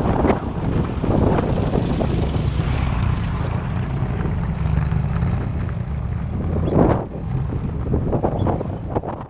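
Strong wind buffeting the microphone, a loud, steady low rush with a few louder gusts.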